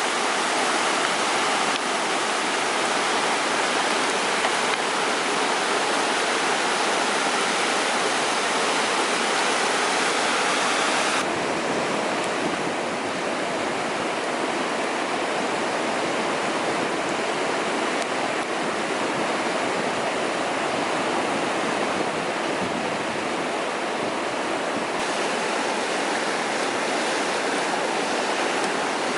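Mountain stream water rushing steadily over rocks. About eleven seconds in the sound changes abruptly, going less bright, as when the shot moves to another stretch of the stream.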